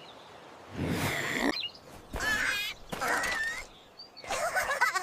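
Bird chirps and warbling calls in several short bursts about a second apart.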